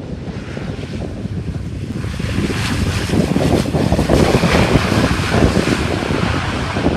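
Wind buffeting the microphone, a gusty rushing noise that grows louder and brighter about two seconds in.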